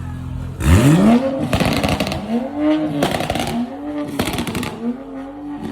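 Vehicle engine and exhaust at a car meet: a steady idle, then under a second in a hard rev, followed by about four more quick revs, each rising and falling in pitch.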